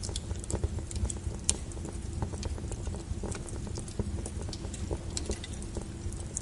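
Wood fire crackling: irregular sharp pops and snaps over a low, steady rumble of the flames, with one louder pop about a second and a half in.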